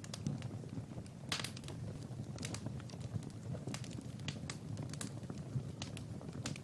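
Wood fire crackling in a fireplace: irregular sharp pops and snaps, several a second, over a steady low rush of the burning fire.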